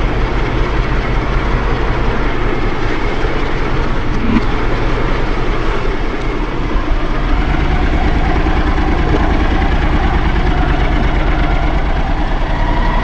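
Honda NC750X parallel-twin motorcycle engine running steadily, with a constant rushing noise over it.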